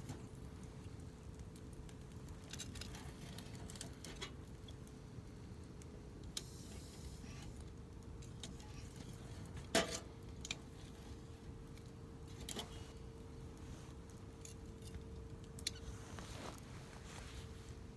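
Wood campfire crackling, with scattered sharp pops and snaps over a low steady rush; the loudest snap comes about ten seconds in.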